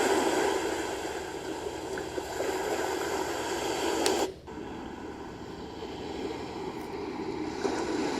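Ocean-surf white-noise track from a baby white-noise machine's small speaker: a steady hiss of waves. It cuts out suddenly about four seconds in, and a quieter hiss then swells back up.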